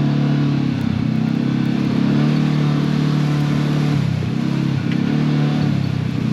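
Side-by-side UTV engine running under load while crawling over rough trail, its drone easing off and picking back up a few times as the throttle is let off and reapplied.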